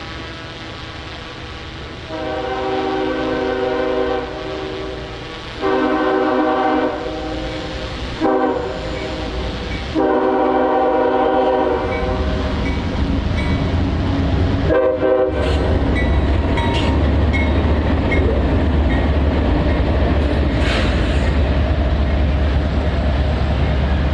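Nathan K5HL five-chime air horn on a CSX freight locomotive sounding the grade-crossing signal, long, long, short, long, followed by one more short blast. The train's diesel locomotives then pass close by with a loud, deep engine rumble and wheel noise on the rails.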